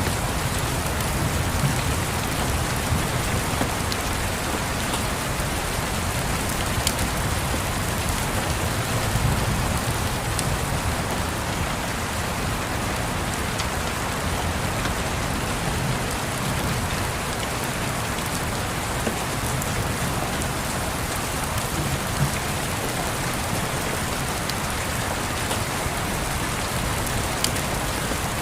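Steady rain falling and tapping on a surface, with a low rolling rumble of distant thunder underneath and a few faint crackles from a wood fire.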